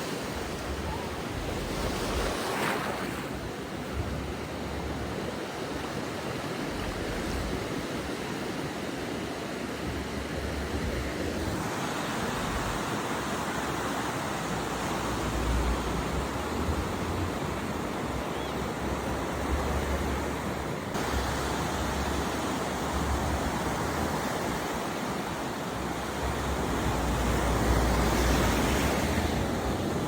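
Ocean surf washing steadily onto a beach, swelling louder near the end, with wind rumbling on the microphone.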